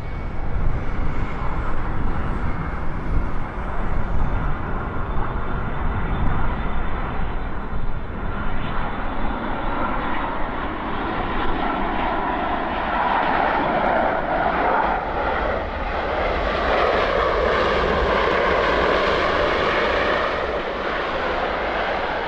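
Japan Airlines Boeing 787-8 Dreamliner jet on approach to land, its engine noise building from about halfway in to its loudest near the end as it passes close. Gusty wind rumbles on the microphone in the first half.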